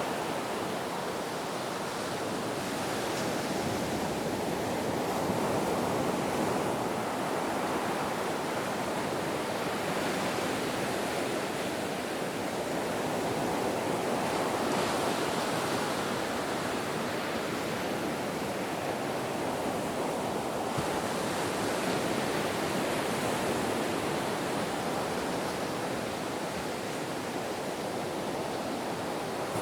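Ocean surf: a steady rushing wash of waves that swells and eases gently every few seconds.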